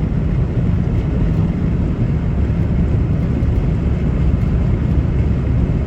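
Steady road and engine noise inside a car cabin at highway speed.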